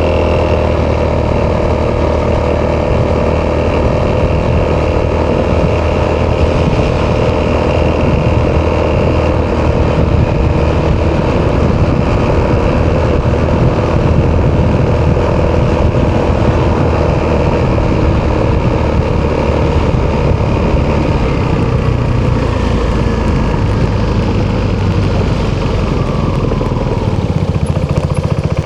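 Italjet Dragster 200's single-cylinder four-stroke DOHC engine running through an Akrapovic exhaust while riding, at a fairly even throttle; the engine note drops in the last few seconds as it slows.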